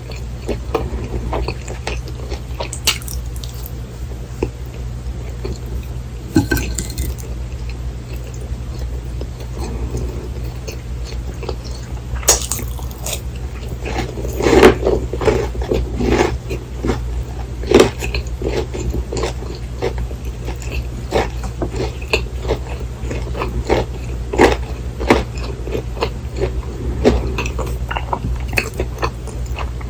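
Close-miked eating: chewing and biting of a fried cheese pork cutlet meal with white rice, with many irregular crisp clicks and a few louder bursts of crunching, over a steady low hum.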